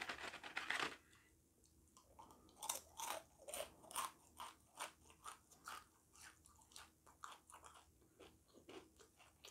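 Faint crunching of a person chewing crispy fried chicken skin: a steady run of crunches, about two to three a second, after a short rustle at the start as the piece is taken from the cardboard box.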